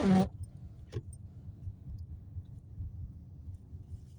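Low, steady rumble of a car's engine and tyres heard from inside the cabin while driving, with a few faint ticks. A brief louder sound, like the end of a word, comes right at the start.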